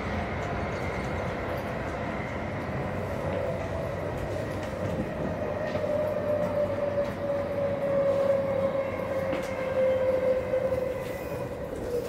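Running noise heard from inside a double-deck passenger train carriage: a steady rumble of the train on the track, with a humming tone that slowly falls in pitch and a few light clicks.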